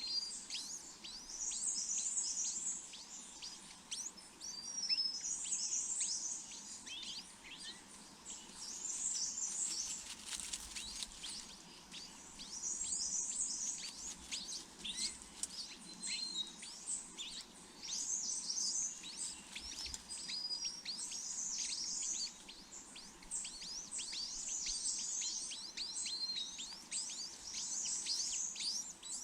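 Small birds chirping in quick high-pitched clusters that come again every few seconds.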